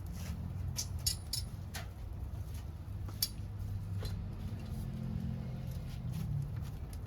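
Wood fire burning with irregular sharp crackles and pops over a steady low rumble.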